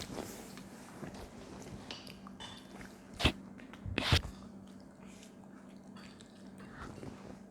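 Eating at a table: quiet chewing, with two sharp clicks of a utensil against a dish a little under a second apart, near the middle.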